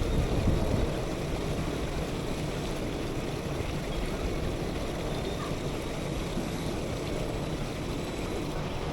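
Wind buffeting the microphone: a steady low rumble with hiss over it, a little gustier in the first second.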